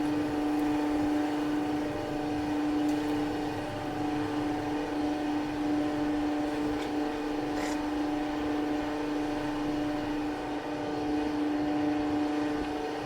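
A motor running at a steady speed, a constant-pitched hum with a strong low tone and overtones above it.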